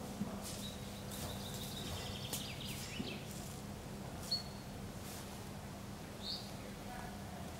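Birds chirping and calling, short high chirps over a steady low hum, with scattered brief rustles and clicks.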